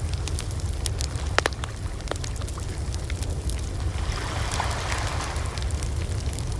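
Wood fire burning: scattered sharp crackles and pops, the loudest about a second and a half in, over a steady low rumble and soft hiss.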